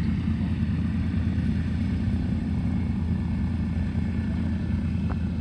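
Light propeller aircraft's piston engine running steadily: a low, even drone.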